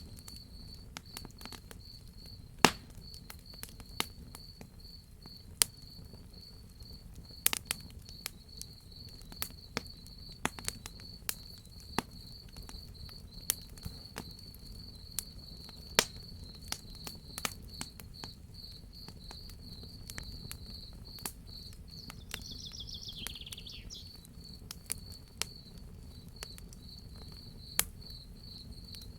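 Crickets chirping in a steady rapid pulse with a wood fire crackling over them, irregular sharp pops, a few of them loud. A short falling chirping call cuts in about two-thirds of the way through.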